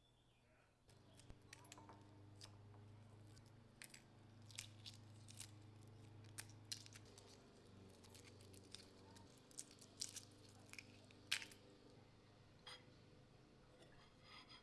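Faint, scattered clicks and taps of hands preparing food, with the loudest tap about eleven seconds in, over a low steady hum.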